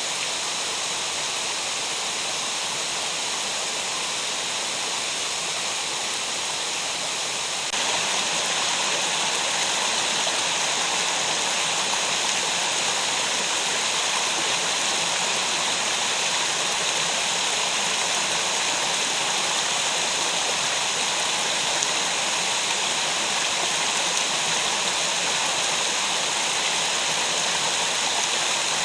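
Mountain stream rushing steadily in a gorge. The water noise gets suddenly louder about eight seconds in.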